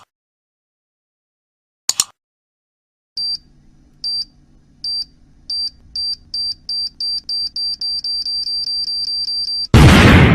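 Time-bomb countdown sound effect: high electronic beeps that come faster and faster until they run almost together, then a loud explosion near the end with a long fading rumble. A short click comes about two seconds in.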